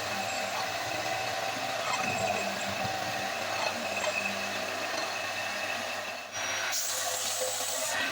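A power tool running steadily with a hissing, grinding noise; it dips for a moment about six seconds in, then carries on brighter and hissier.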